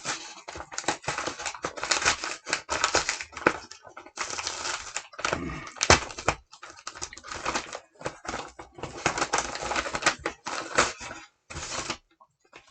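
Padded mail envelope being torn open and crinkled by hand: a long run of loud, irregular ripping and crackling that stops shortly before the end, which she calls horrible.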